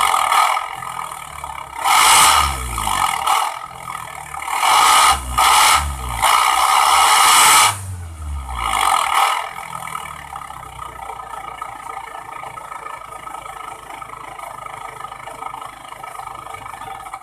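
Car engine revved in repeated short blips through a homemade welded 'suos' exhaust with an internal baffle, the pitch falling back after each blip. From about ten seconds in it settles to a steady idle.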